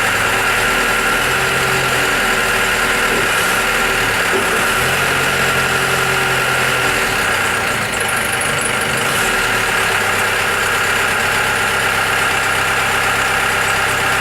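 Diesel engine of a 2007 Hyster 5.5-tonne forklift truck running steadily at idle.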